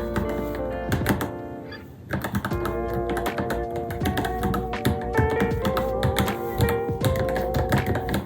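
Rapid typing on a Varmilo Minilo mechanical keyboard, a quick run of keystroke clicks, over background music that dips briefly about two seconds in.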